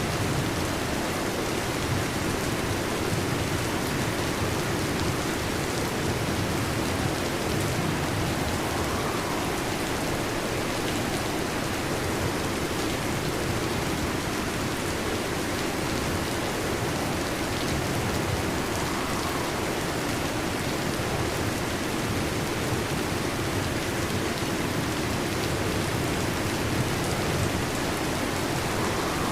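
Heavy rain falling steadily, an even hiss with no clear thunderclap.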